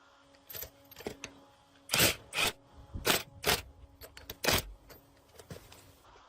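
Workshop handling noise: about eight sharp, uneven knocks and scrapes, like tools and metal parts clanking, the loudest about two seconds in and again near four and a half seconds.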